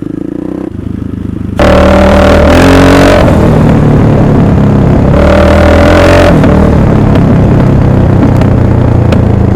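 1998 Husaberg FC600's single-cylinder four-stroke engine running, getting much louder about a second and a half in. It is revved twice, around two and five seconds in, between stretches of steady running.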